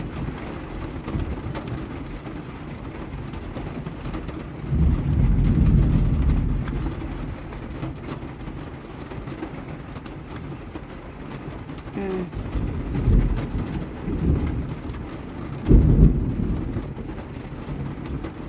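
Steady rain on a camper van's roof, heard from inside, with three low rolls of thunder. The longest roll comes about five seconds in, and two shorter ones come near the end.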